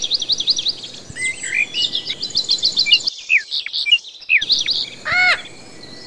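Birds chirping and calling: quick runs of trilled chirps and whistles, briefly dropping out twice around three to four seconds in, then a louder harsh squawk about five seconds in.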